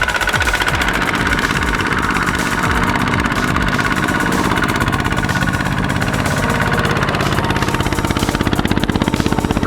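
Single-cylinder diesel engine of a two-wheel walking tractor running hard, with a dense, even chugging. Its speed shifts in the first second or so, then holds steady.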